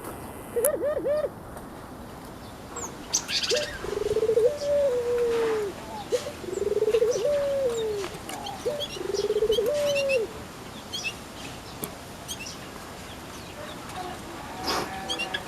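A dove cooing in three drawn-out, low phrases, each about two seconds long, after a short call near the start, with scattered short high chirps from small birds.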